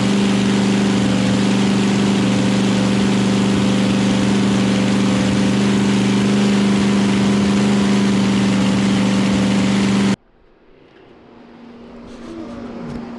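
Chevrolet small-block V8 running steadily on its very first start, its carburettor not yet tuned. About ten seconds in the engine sound cuts off suddenly, leaving a faint hum.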